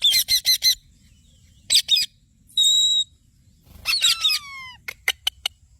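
Parrot calling, with no words: a quick run of sharp chirps at the start, a short burst, then a brief held whistle. A string of falling calls and a few sharp clicks follow near the end.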